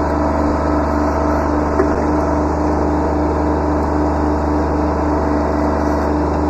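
Kubota B7100 subcompact tractor's three-cylinder diesel engine running steadily at working speed, with a steady hum and whine. A small knock about two seconds in.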